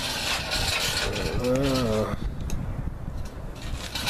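Metal clattering, scraping and ratchet-like clicking from mechanics' work under a jacked-up car as its front subframe is taken out. A short wavering hum comes about a second and a half in.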